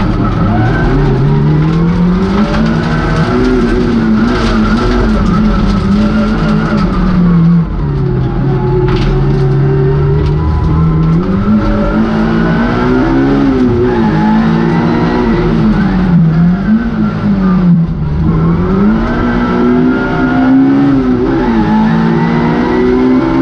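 Vauxhall Nova rally car's engine heard from inside the cabin while it is driven hard, revs climbing and dropping again and again through the gears.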